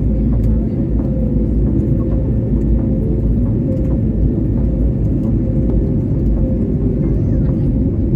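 An airliner's engines droning steadily, heard inside the passenger cabin during the climb after take-off: a deep, even rumble with a steady hum on top.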